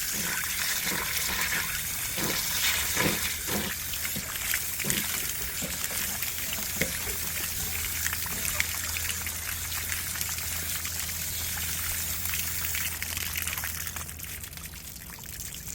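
Water pouring and splashing out of the drain opening of a Suburban SW12DE RV water heater tank as it is flushed with a hose wand, still carrying out gray sediment. A few light knocks in the first few seconds, and the flow goes softer near the end.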